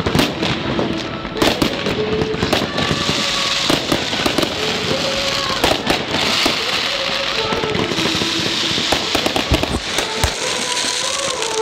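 Fireworks display: a quick run of bangs from bursting aerial shells, with spells of dense crackling from crackle stars, over music playing underneath.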